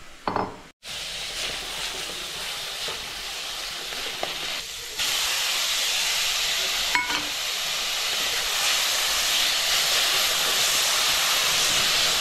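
Leafy greens frying in oil in a wok: a steady sizzling hiss that gets louder about five seconds in. A single short metallic clink comes near the seven-second mark, as the steel lid is lifted off.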